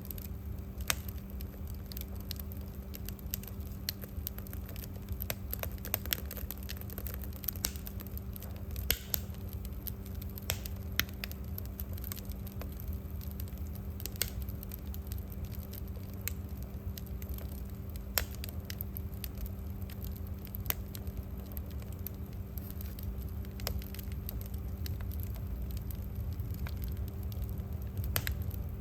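Wood fire crackling in a fireplace, with sharp irregular pops and snaps over a steady low hum.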